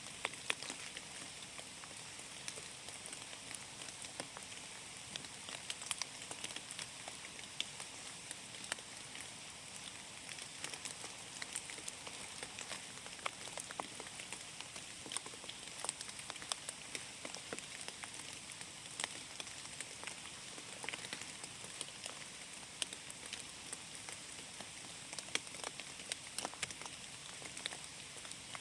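Steady rain: a continuous soft hiss with many separate raindrops tapping irregularly throughout.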